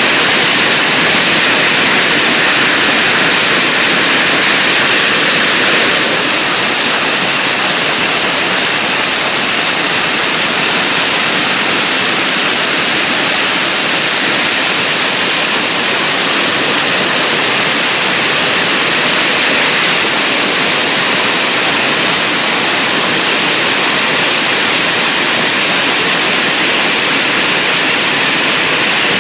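Hailstorm: hail and heavy rain coming down hard, a dense, steady noise, easing slightly about ten seconds in.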